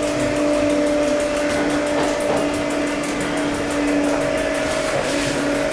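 Passenger train running, heard from inside the carriage: steady rolling noise under a constant electric hum.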